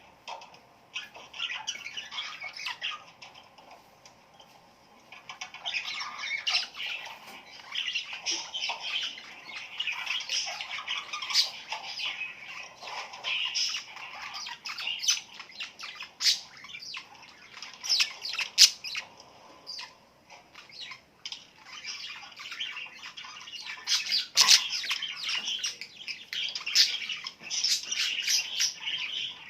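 Many small birds chirping and squawking together in a dense, busy chatter of short calls, with brief lulls about four seconds in and about two-thirds of the way through.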